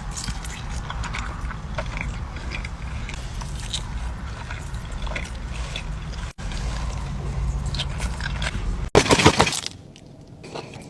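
Close-miked eating sounds: a person chewing and biting into fast food, with small crisp clicks and smacks over a steady low hum. The sound cuts off abruptly twice, and there is a loud crunchy burst about nine seconds in, after which the chewing is quieter.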